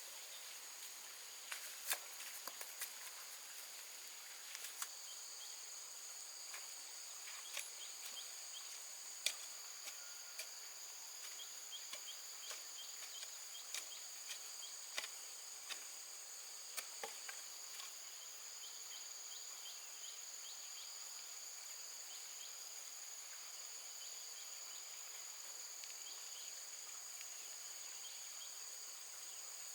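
Steady high-pitched chorus of insects, holding two even tones, with scattered light clicks and knocks through roughly the first half.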